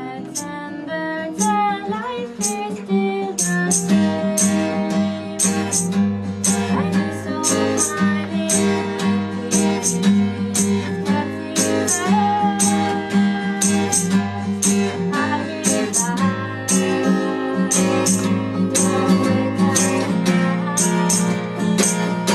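A band playing a song live: strummed acoustic guitar over evenly repeated percussion hits, with a low bass line coming in about four seconds in and a voice singing along.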